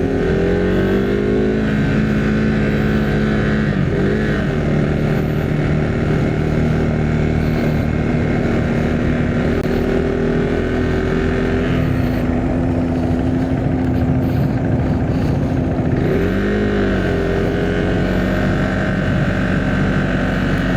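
Single-cylinder engine of a Husqvarna Svartpilen 401 motorcycle running under way, with wind rush, its pitch dipping and climbing again about four seconds in and again near the end, as with gear changes.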